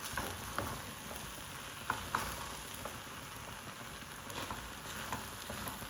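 A pot of rice cooking in stock on the heat, giving a steady sizzling hiss with a few light clicks scattered through it.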